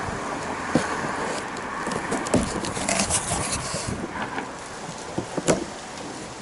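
Cardboard shipping box being opened and handled, with scattered knocks and scrapes and a crackly rustle of packaging about halfway through.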